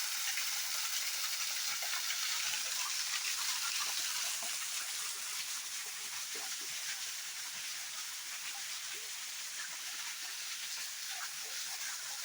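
Steady hiss of water, an even rushing noise without pause, with faint short blips scattered through it.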